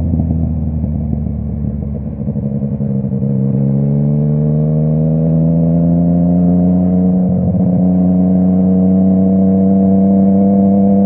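Yamaha MT-09's crossplane three-cylinder engine through a full Akrapovic exhaust, ridden on the road. The note eases off for about two seconds, then rises smoothly as the bike accelerates and settles into a steady cruise from about seven seconds in.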